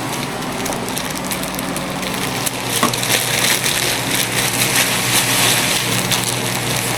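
Ground turkey sizzling and crackling in a hot pan, the spitting growing louder about three seconds in, over a steady low hum.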